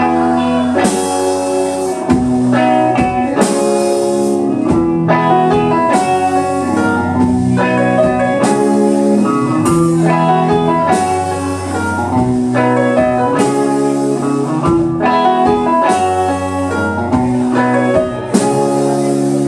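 A rock band playing an instrumental passage: electric guitar with bass and drum kit, cymbals crashing at a steady beat.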